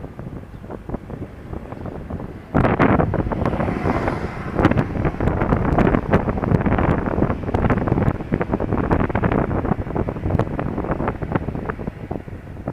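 Wind buffeting the action camera's microphone while riding a Honda Dio scooter, with road and vehicle noise under it. It gets louder about two and a half seconds in.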